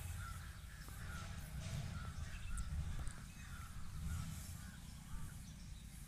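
Faint background: a low steady rumble with distant birds calling in short, repeated calls about once a second.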